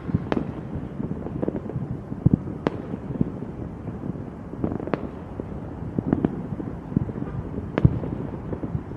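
Fireworks going off: a steady crackle with sharp bangs at irregular intervals, a second or two apart.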